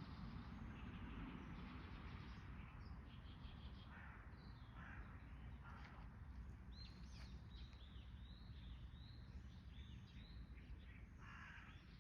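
Birds calling over a low, steady background rumble. There is a quick run of about eight short, high chirps in the middle, and a few harsher, lower calls before it and near the end.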